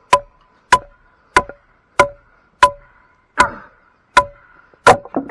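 Batoning: a wooden club hammering the spine of a fixed-blade knife driven into a tough log, about eight sharp, evenly paced strikes with a quick flurry at the end. Each strike carries a short metallic ring from the blade.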